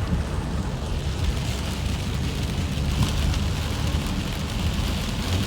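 Hard rain pouring down steadily, a dense hiss with a few faint drop ticks over a constant low rumble.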